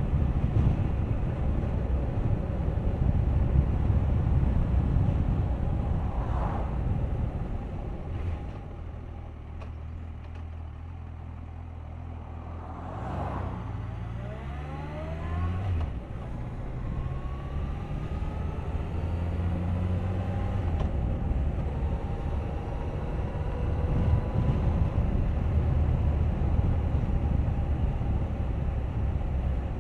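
Suzuki GSX1250FA's inline-four engine running on the road under heavy wind rush over the microphone. About a third of the way in the wind eases and the engine's hum comes through, rising in pitch as the bike accelerates a little before halfway. Then the wind noise builds again.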